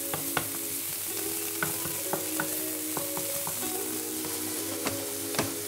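Finely diced onion sizzling steadily in hot vegetable oil in a nonstick frying pan, being fried until half done, stirred with a wooden spatula that gives a scatter of short sharp clicks and taps.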